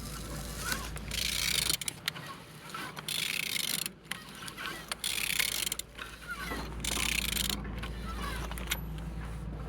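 A removed engine being turned over by hand at the crankshaft to show it rotates freely: about four separate stretches of rasping mechanical noise, each about a second long.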